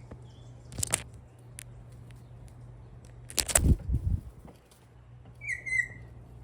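Two short rushes of noise, the second and louder one about three seconds in, then a single short, harsh bird call near the end, over a steady low hum.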